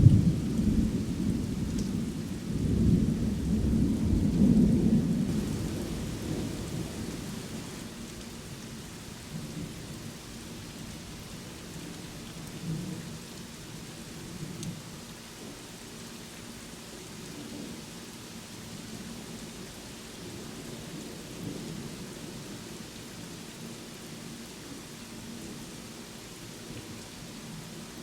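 A thunderclap rumbling low and loud for the first few seconds, then dying away, over steady rainfall. After that the rain keeps falling evenly, with faint distant rumbles now and then.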